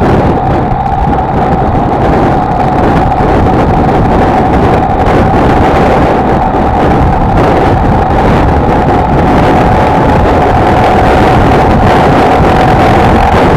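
Honda XLR125R's single-cylinder four-stroke engine running at a steady cruising speed with a steady whine, under heavy wind noise on the microphone.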